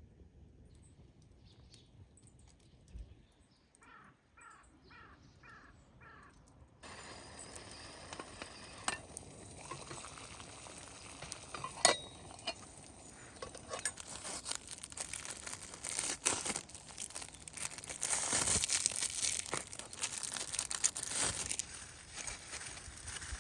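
Steady sizzling hiss full of sharp crackles and clicks, starting abruptly about seven seconds in and growing louder toward the end, with a few clinks. Before it, a faint run of short chirps.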